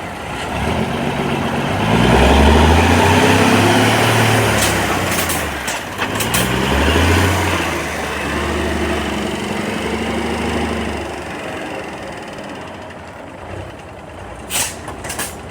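1979 AM General truck's engine running, revved up about two seconds in and again around seven seconds, then easing back and quieting near the end. A few sharp clicks near the end.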